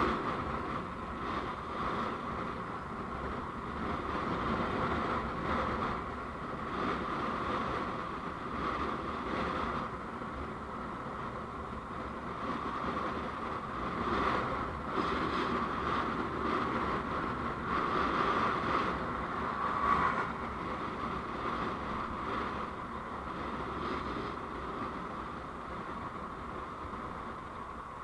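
Steady road noise from a moving vehicle, with a low rumble and a rushing hiss that swells and eases a little but never stops.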